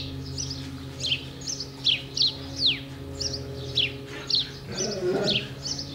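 A bird calling over and over with short, high, falling chirps, about two a second, over a steady low hum. About five seconds in, a brief wavering lower sound.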